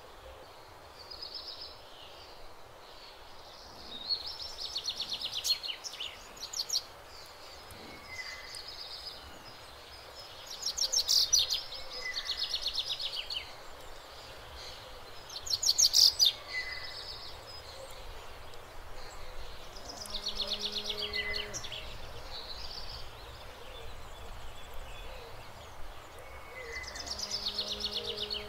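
Songbirds singing short, rapid trilled phrases every few seconds over a steady outdoor hiss, the loudest phrases about a third and halfway through.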